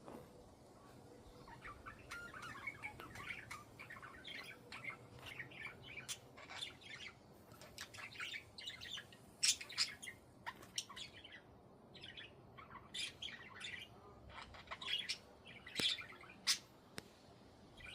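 Budgerigars chirping and chattering in a busy run of short, quick calls, with a few louder squawks in the second half.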